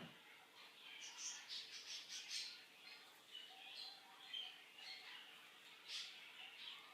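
Faint bird chirps and tweets: short, high calls at irregular moments, about one every second.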